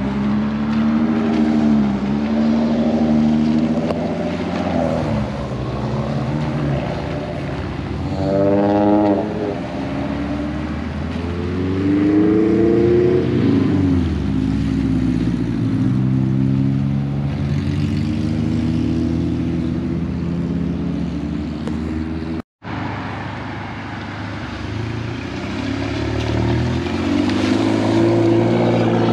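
Car engines accelerating away one after another as cars pull out and turn onto the road, their pitch rising and falling with each pull, with a sharp rising rev about nine seconds in.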